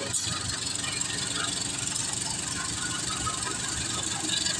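Diesel-electric locomotive running as it pulls a passenger train slowly away, with the coaches' wheels rattling over the rails and a steady hiss. A sharp knock comes just after the start.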